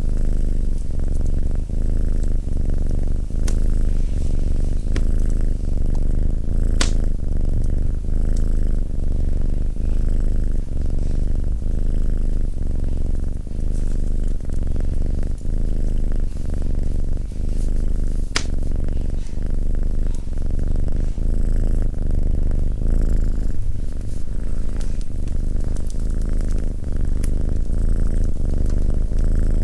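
Domestic cat purring loudly and steadily, the purr swelling and easing with each breath about every two seconds. A few sharp crackles from the fireplace break through now and then.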